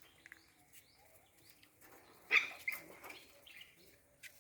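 A few short, high-pitched animal calls in quick succession, the loudest about two seconds in, over faint background.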